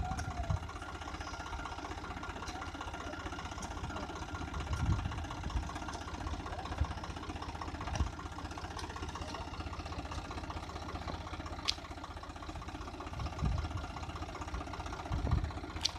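Tractor engine running steadily at idle, with a few low bumps.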